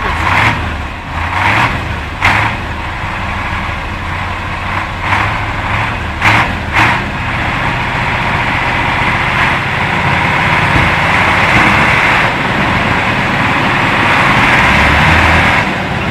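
Heavy truck engine running steadily under load, with several short sharp noisy bursts in the first seven seconds and a louder, rougher rush of noise building in the second half.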